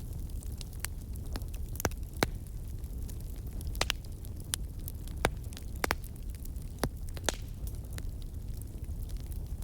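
Wood fire burning with a steady low rumble under irregular sharp crackles and pops, a few louder snaps standing out.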